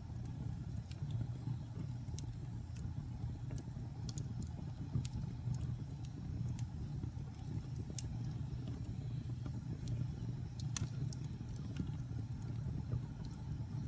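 Wood fire burning: a steady low rumble with scattered sharp crackles and pops, one louder pop about three-quarters of the way through.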